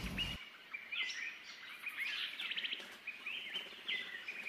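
Small birds chirping: many short, overlapping calls with little rising and falling sweeps, and a quick trill about two and a half seconds in.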